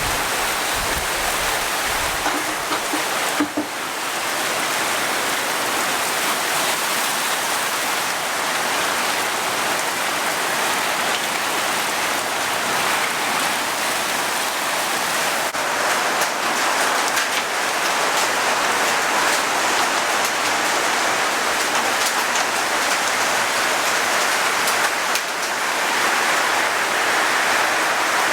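Heavy rain pelting down in a downpour: a steady, loud hiss of rain on surfaces.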